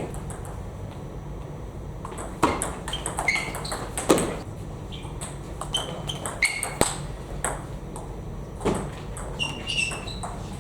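Table tennis ball clicking off paddles and the table in a sports hall: sharp, hollow pings at irregular intervals, several in quick succession.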